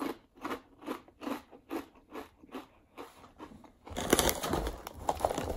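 Ruffles Double Crunch ridged potato chips being chewed with the mouth closed, a steady crunch about two to three times a second. About four seconds in, a louder crinkling rustle as the foil chip bag is handled.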